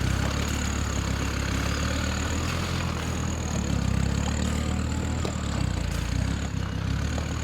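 Off-road 4x4 truck engine running at low revs as the truck crawls slowly up a muddy hill, with a thin, steady high whine over it and a few faint knocks.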